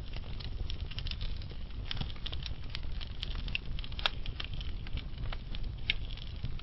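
Burning logs crackling in a fireplace: irregular sharp pops and snaps, a sharper one about four seconds in and another near six seconds, over a low steady rumble of the flames.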